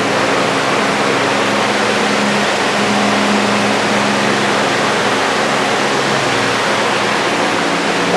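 A machine running steadily: a motor's hum under an even rushing hiss. The hum's pitch shifts slightly about two and a half seconds in and again near six and a half seconds.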